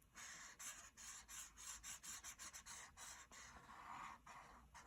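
Faint, quick strokes of a drawing tool on paper, several a second, as a stick-figure arm is drawn.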